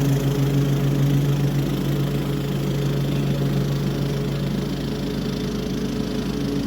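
Toro HDX 30-inch self-propelled mulching mower running steadily while mowing, a constant engine drone that gets slightly quieter through the second half.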